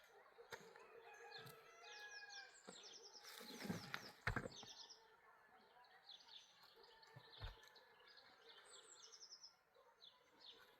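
Small birds chirping in quick runs of repeated short high notes, faint. About four seconds in, a short rustling scrape ends in a low thud, the loudest moment, and a smaller thud follows a few seconds later.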